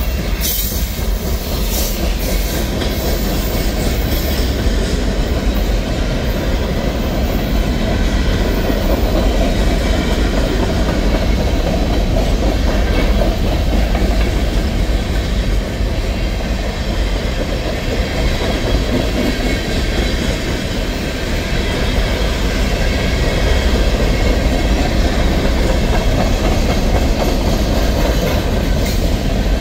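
Freight cars of a manifest train rolling past close by: a steady, loud rumble of steel wheels on rail with clickety-clack.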